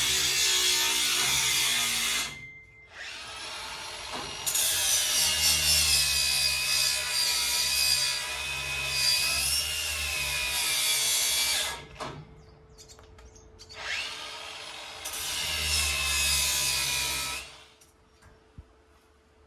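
Handheld electric power tool running in three long bursts, its whine rising and falling in pitch as the load changes, then stopping near the end.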